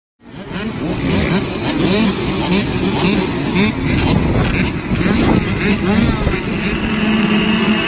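65cc two-stroke motocross bike engines revving, the pitch rising and falling over and over as the throttle opens and closes. The sound cuts in suddenly just after the start.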